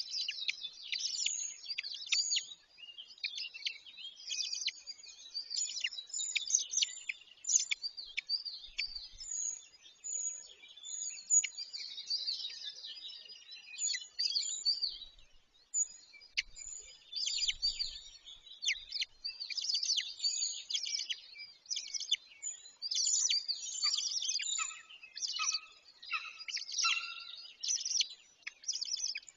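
Birds chirping and singing, many short high calls and quick trills overlapping without a break. A few lower separate notes come in near the end.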